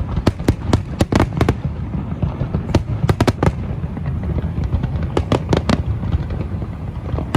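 Fireworks exploding: rapid sharp bangs in clusters over a continuous low rumble.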